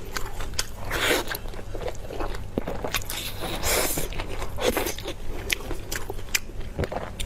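A person biting and chewing food, a quick irregular run of sharp clicks and short noisy bursts.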